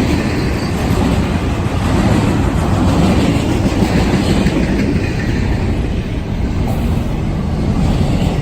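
Freight train cars rolling past: a loud, steady rumble of steel wheels on rail.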